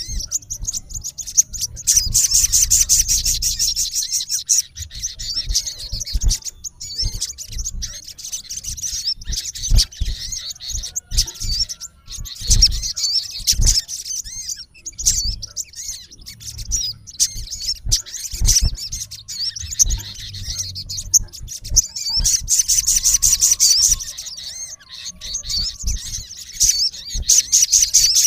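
Male olive-backed sunbird calling: rapid, high, thin chirps and twitters, rising twice into dense fast trills, about two seconds in and again near the end. Occasional low thumps.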